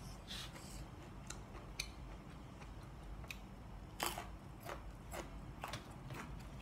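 A person chewing food close to the microphone, with scattered wet mouth clicks and smacks. The loudest come about four seconds in.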